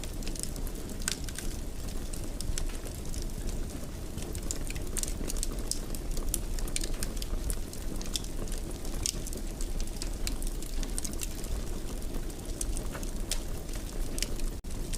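Wood fire in a fireplace crackling, with irregular sharp pops over a steady low rumble of the flames. The sound cuts out for an instant near the end.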